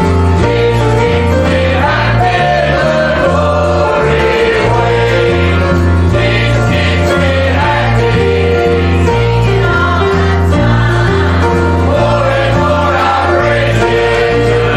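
Gospel music: a group of voices singing together over instrumental accompaniment with a steady, stepping bass line.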